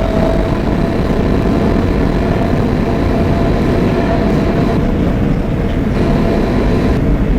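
An R160B Siemens subway car running between stations, heard from inside: a steady loud rumble of wheels on rail with a faint steady whine from the Siemens traction motors.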